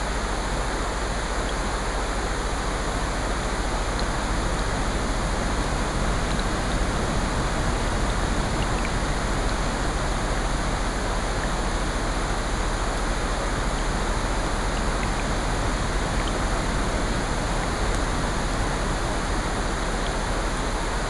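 Steady layered ambience of rain and ocean surf, an even rushing hiss, with a few faint fireplace crackles scattered through it.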